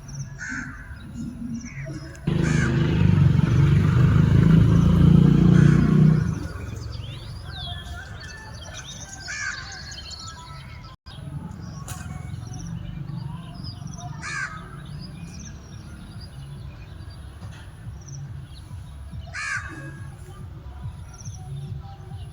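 Peacock calls: short, loud, bending cries repeated every few seconds. About two seconds in, a loud low rumbling noise covers everything for about four seconds.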